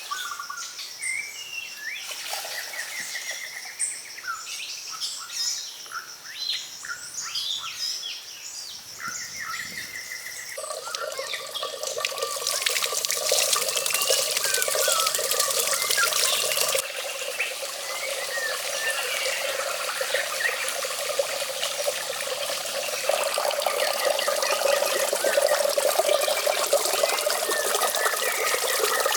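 Small birds chirping and calling. From about ten seconds in, a steady sound of running, splashing water takes over and gets louder, with bird calls still heard over it.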